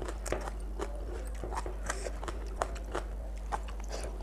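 Close-up eating sounds of a person eating rice and curry by hand: wet chewing, smacking and small crunches, several a second in an irregular rhythm.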